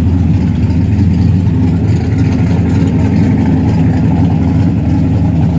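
A vehicle engine idling steadily, a loud, even low hum with no change in pitch.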